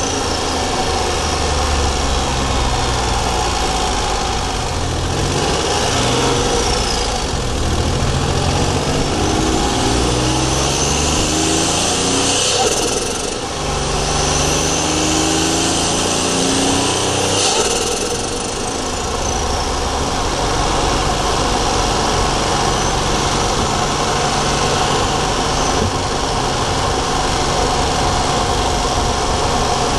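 Daihatsu Charade GTti's 1.0-litre turbocharged three-cylinder engine, heard from the engine bay under acceleration: revs climb and drop as it works through the gears, with a faint turbo whistle rising and falling and brief dips in level at the shifts.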